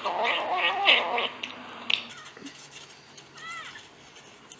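A cat yowling, a long wavering meow over the first second or so, followed by a sharp click. A short high-pitched call comes about three and a half seconds in.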